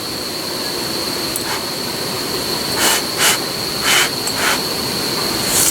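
Insects, likely crickets, giving a continuous high-pitched trill over a steady low hiss, with a few short crackling noises in the second half.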